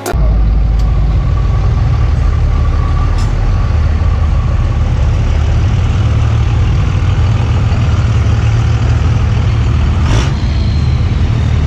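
Steady low rumble of a vehicle engine running, with no change in speed.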